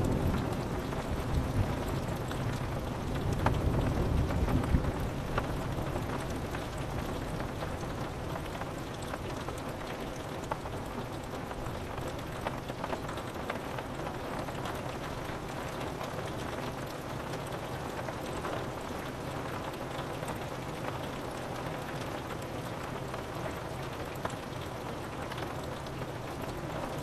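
Steady rain on a window, with scattered drop ticks. A low rumble of thunder swells and fades from about two to five seconds in, and the rain carries on alone after it.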